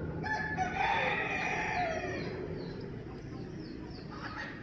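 A rooster crows once: a call of about two seconds that drops in pitch as it ends.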